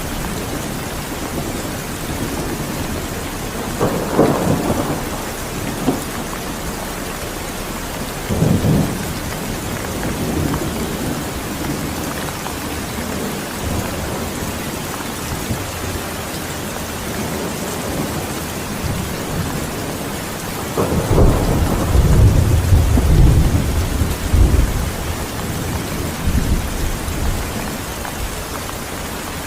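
Steady heavy rain with rolling thunder: a rumble about four seconds in, a short one near nine seconds, and a longer, louder roll from about twenty-one to twenty-five seconds.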